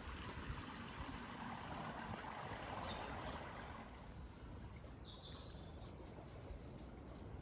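Outdoor background noise that swells over the first few seconds and then eases, with two brief high chirps.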